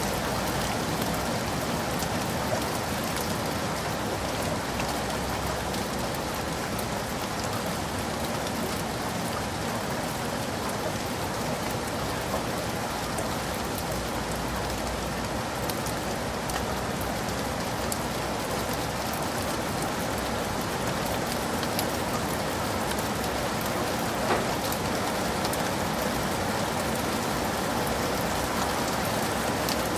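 Heavy rain falling steadily in a forest, a dense even hiss of drops with many small drop ticks throughout.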